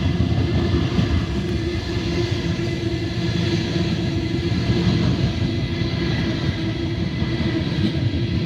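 Sydney Trains B-set (Waratah Series 2) electric passenger train at the station, a steady loud rumble with a held electric hum.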